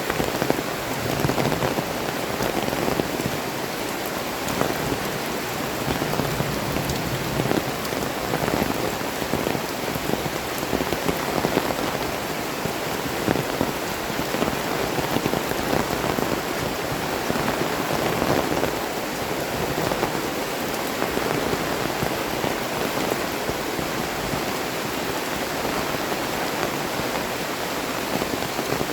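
Heavy tropical rain pouring steadily, a dense patter of drops striking the ground and surfaces without a break.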